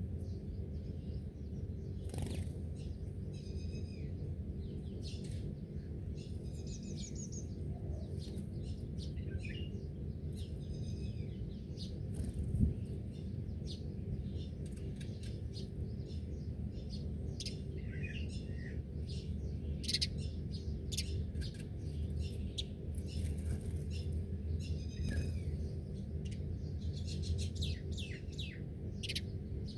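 Several wild birds chirping and trilling in short, scattered calls over a steady low hum, with a single brief knock about twelve seconds in.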